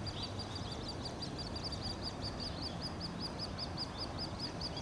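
A small bird's high, thin chirp repeated rapidly in an even series, about six notes a second, over a low background rumble.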